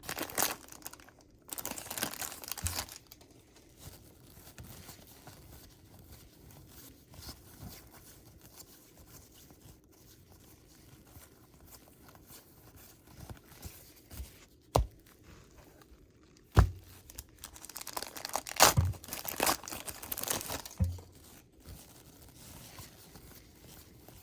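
Baseball card pack wrapper being torn open and crinkled, with cards rustling as they are handled. Two sharp taps come in the middle.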